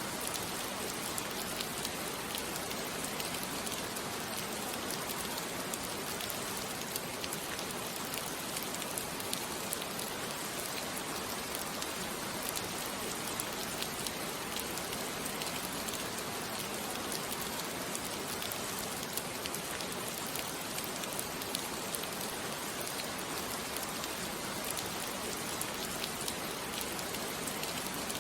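Steady rain falling, an even hiss of water on surfaces with scattered individual drop ticks.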